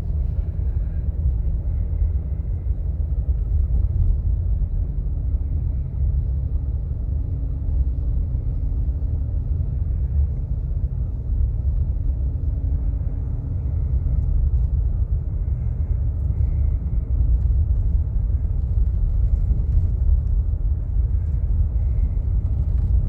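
Steady low rumble of a car driving slowly on a snowy road, engine and tyre noise heard from inside the cabin. A faint hum comes in twice in the middle.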